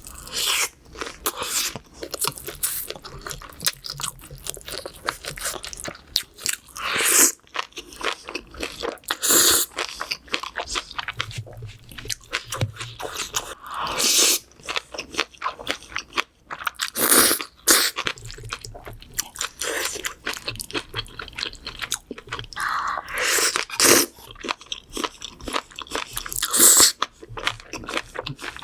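A person eating seafood close to the microphone: steady, irregular chewing and crunching, with louder crunches every few seconds.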